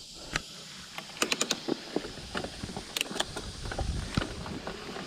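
Mountain bike on a wet, muddy trail: irregular sharp clicks and rattles, some in quick clusters, over a low rumble.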